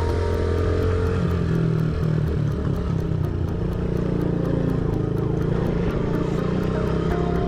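Small single-cylinder dirt bike engine, a Honda CRF50, running steadily, with background music over it.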